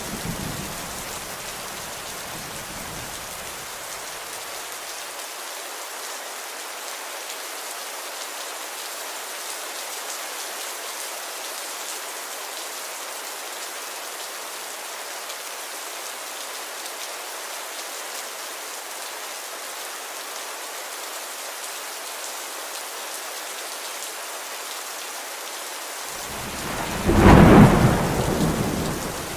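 Steady heavy rain hissing, with a thunder rumble dying away in the first few seconds. Near the end a loud roll of thunder comes in and starts to fade.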